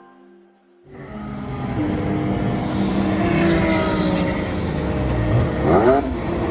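A car engine running, coming in about a second in and holding steady, with a brief rev near the end.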